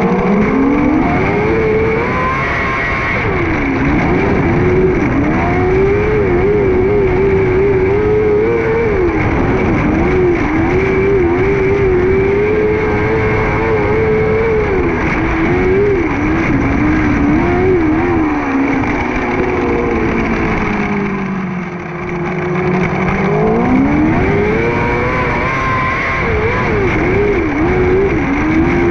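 600cc micro sprint car's four-cylinder motorcycle engine at racing speed, held high with small wavers. The pitch drops off twice, a few seconds in and again about three quarters of the way through, then climbs hard back up.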